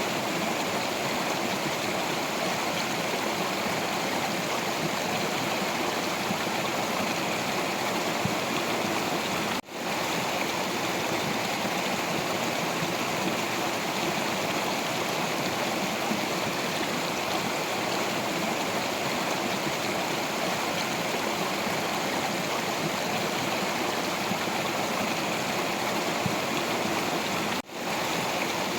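Stream water flowing over rocks: a steady, even rushing and burbling. It cuts out for a split second twice, about ten seconds in and near the end.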